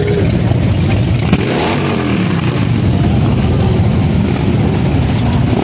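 Car engine running loudly, its pitch rising and falling once about two seconds in as it revs.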